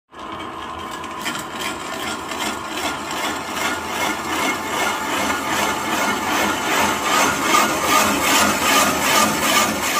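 A tool cutting into wood with a rasping sound in an even rhythm of about two to three strokes a second, growing louder toward the end.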